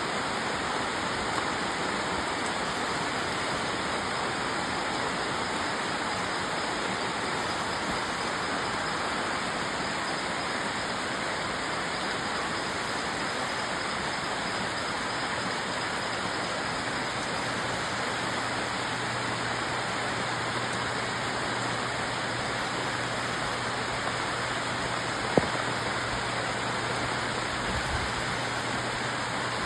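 Steady rain falling, an even hiss of water. A faint low hum joins a little past halfway, and there is one sharp click near the end.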